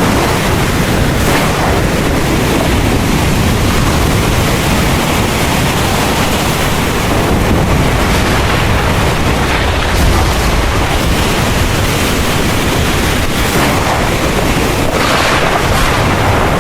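Heavy rain falling steadily under a low, rolling rumble of thunder, swelling louder about fifteen seconds in.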